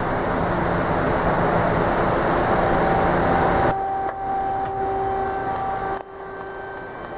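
Machinery running with a loud, steady noise that cuts off suddenly about three and a half seconds in. A quieter steady hum with a whine carries on after it and drops again near the end.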